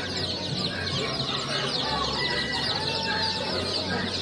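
Many caged poultry calling at once: a steady chatter of overlapping high chirps and peeps, with a few longer calls among them.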